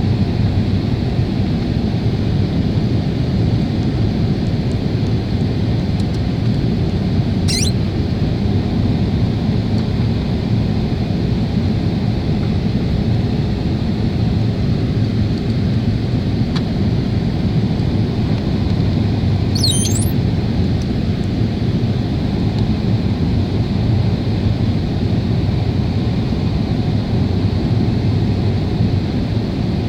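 Steady jet engine and airflow noise inside the cabin of a Boeing 777 airliner. Two brief, faint, high falling sounds come about 8 and 20 seconds in.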